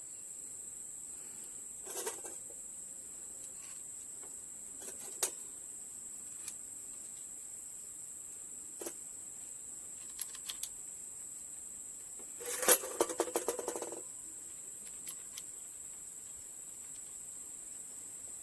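Metal hand tools and engine parts clinking and knocking during engine assembly: a few single clicks spread apart, then a quick run of rapid clicks for about a second and a half past the middle. A steady high-pitched buzz runs underneath throughout.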